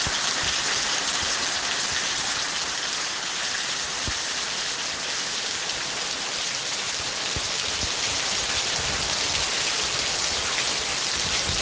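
Steady heavy rainfall, an even dense hiss of drops with occasional soft low thuds.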